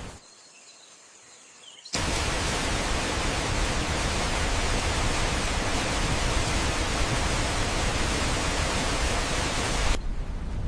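Falling water making a steady, even noise that starts suddenly about two seconds in and cuts off suddenly near the end.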